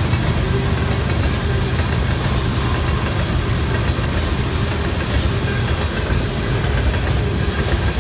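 A train's rail cars rolling past on the track.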